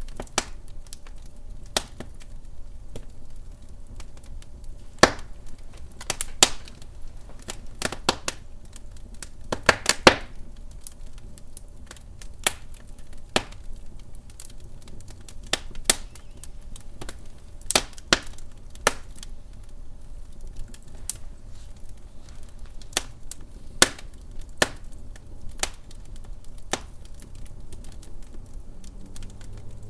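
Wood fire crackling in a fireplace, with irregular sharp pops and snaps over a low steady rumble, a quick run of louder pops about ten seconds in.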